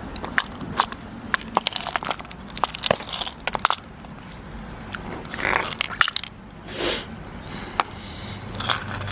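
Freshwater pearl clam shells knocking, cracking and scraping as they are handled, with many sharp clicks in the first few seconds and two short hissing bursts later.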